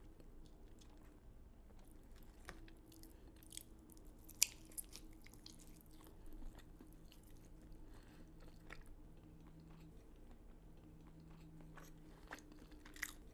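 Quiet mouth sounds of chewing and biting food, with scattered soft crunches and a sharper click about four and a half seconds in.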